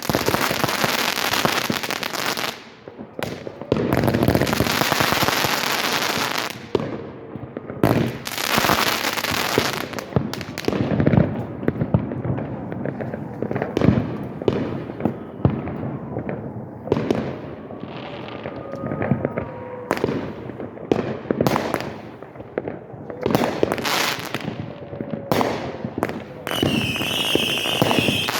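Aerial fireworks going off in quick succession: sharp bangs and booms with long spells of dense crackling, a few faint whistles, and a steady high whistle near the end.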